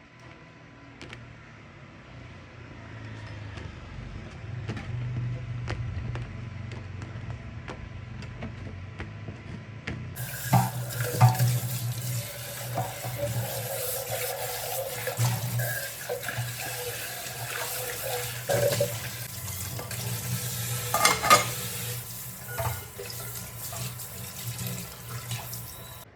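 Water running from a kitchen tap into a sink, starting about ten seconds in and running until near the end, with a few clinks and knocks of dishes. Before it, quieter kitchen handling with scattered clicks over a low hum.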